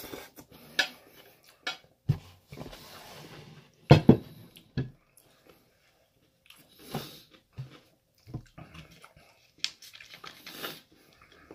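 Close-up eating sounds: chewing a mouthful of chicken stir-fry, with scattered short clicks and knocks from fork and plate, two of them loud about four seconds in.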